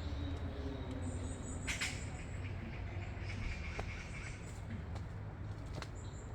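Wild birds chirping: thin high calls and a short trill about three seconds in, over a steady low rumble, with a couple of sharp clicks.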